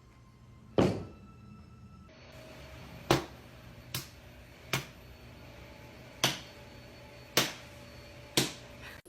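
Seven sharp knocks or thumps at irregular intervals, each ringing on briefly.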